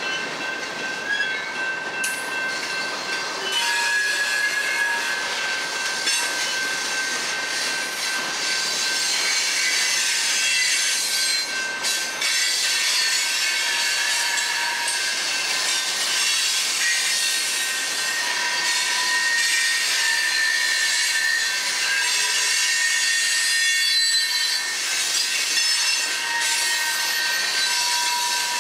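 Freight cars of a long train rolling past, steel wheels running on the rails with several steady high-pitched squealing tones.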